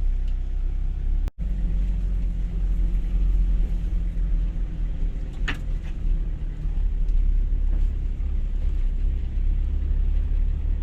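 Two-wheel-drive Toyota HiLux driving slowly over a rough dirt track, its engine and tyres making a steady low rumble. The sound cuts out for an instant just over a second in, and there is a single sharp click about five and a half seconds in.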